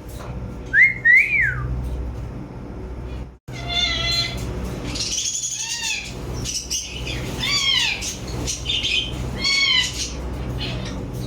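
Pet parrots calling: a whistled call that glides up and down about a second in, then, after a brief dropout, a string of harsh arching squawks every second or two.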